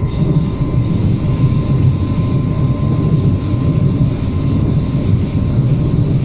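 Commuter train running, heard from inside the carriage: a steady, loud rumble of wheels on the track with a faint steady whine.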